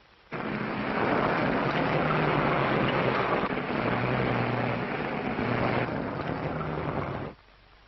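Propeller airplane engine droning with rushing wind noise on an old film soundtrack. It starts abruptly just after the start and cuts off abruptly near the end.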